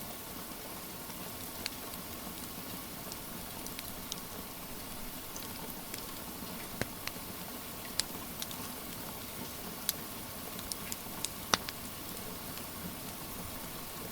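Wood fire crackling over steady rain: a constant hiss of rain under scattered sharp pops and snaps from the burning logs, with a cluster of louder pops in the second half.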